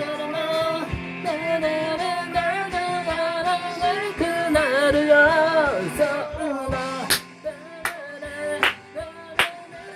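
A sung melody over band backing music with a steady drum beat. In the second half the singing thins out and sharp drum hits stand out.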